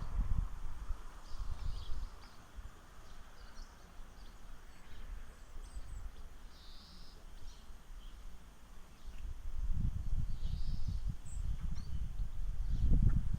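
Wind buffeting the microphone in low rumbling gusts, strongest near the start and again in the last few seconds, with birds chirping in short, faint calls throughout.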